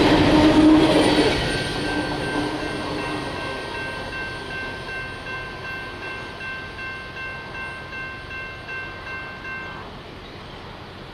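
Freight train passing and fading into the distance, its wheels clicking over rail joints about twice a second. A distant horn sounds a steady chord from about two seconds in until near the end.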